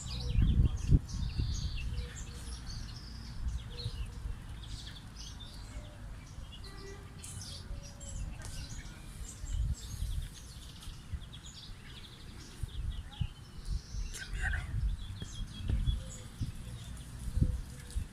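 Small birds chirping here and there over an uneven low rumble.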